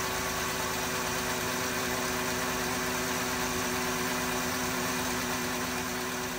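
A 3.6L Pentastar V6 idling steadily, heard from beneath at its belt and pulley side. The owner judges that the harmonic balancer on the crankshaft is starting to fail.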